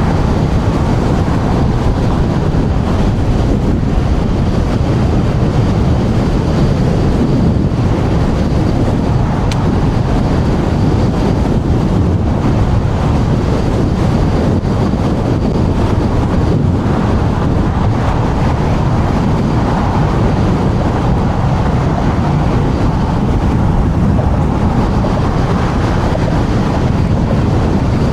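Loud, steady wind rush on a clip-on microphone while riding an electric scooter at speed in strong wind.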